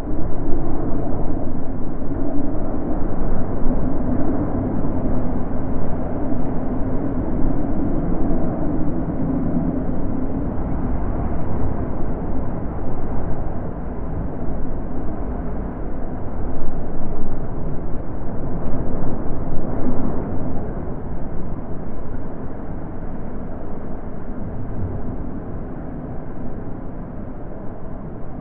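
Wind blowing: a low rushing noise that swells and eases in slow gusts.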